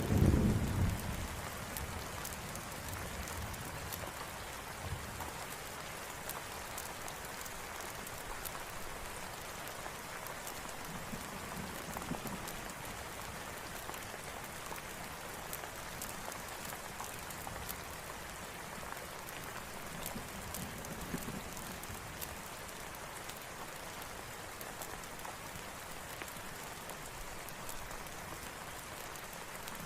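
Steady rain falling, with the last of a thunder rumble dying away at the start and scattered sharp little ticks over the rain.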